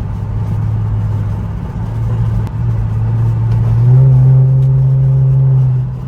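Infiniti Q50's modified twin-turbo VR30 V6 droning steadily while cruising, then about four seconds in it rises a step in pitch and gets louder under more throttle, holding briefly before easing off near the end.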